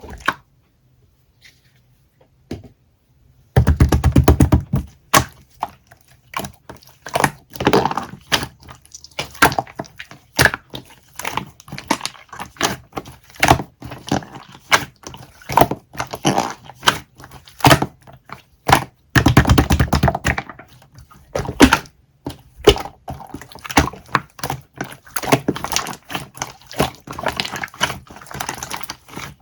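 Close, irregular clicks, taps and crackles in quick succession, starting a few seconds in, with two louder, denser stretches.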